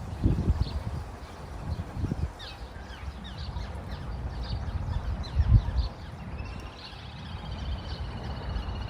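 Coot chicks giving many short, high peeps, over low rumbles and thumps; the loudest thump comes about five and a half seconds in. A wavering higher trill joins in the second half.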